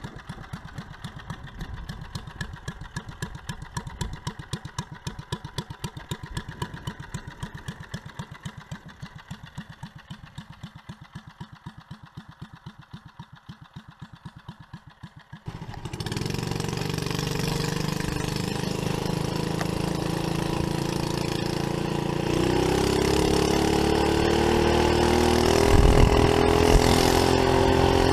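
Briggs & Stratton single-cylinder engine on a homemade trike, first idling with an even, quick beat. About halfway through it suddenly gets louder and runs steadily, and its pitch climbs near the end as it revs up.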